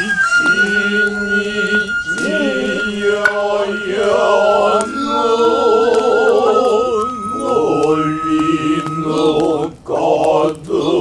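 Noh chanting (utai): voices intoning with a slow, wavering vibrato over a long, high Noh flute (nohkan) note that steps down slightly midway, with a few sharp strikes from the hayashi ensemble.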